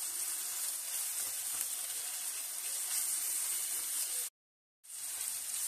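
Minced meat and diced onion sizzling in hot oil in a pan, a steady hiss. The sound drops out completely for about half a second just after four seconds in, then the sizzling resumes.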